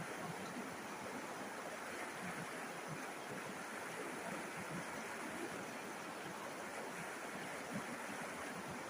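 River water flowing and babbling, a steady rushing and burbling.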